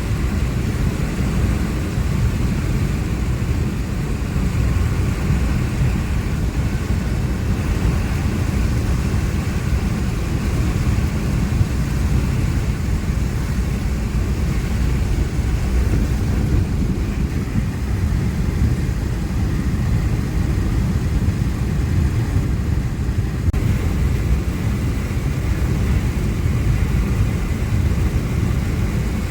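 Steady, loud, low rumble of a vehicle travelling along a road, with road and wind noise and no break or change in speed.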